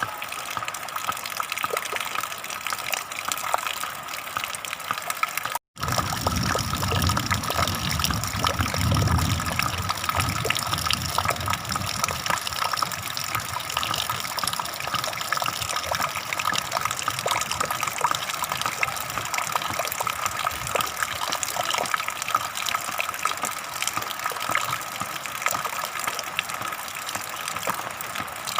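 Flowing water gushing steadily. It cuts out for a split second about six seconds in, and a low rumble sits under the water for a few seconds after that.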